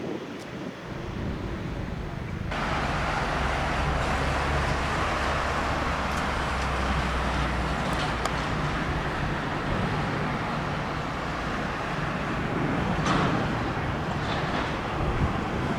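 Jet airliner engines at takeoff power, a steady loud rushing roar with a low hum beneath. It cuts in abruptly about two and a half seconds in, after a quieter stretch of wind noise.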